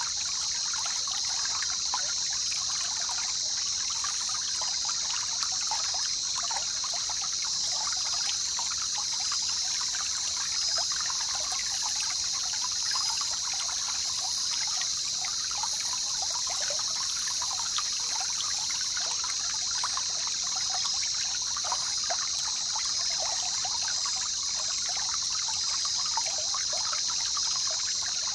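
Jungle river water flowing and trickling steadily. A constant high-pitched drone sits above it. A thinner, higher layer comes in a few seconds in and drops out about two-thirds of the way through.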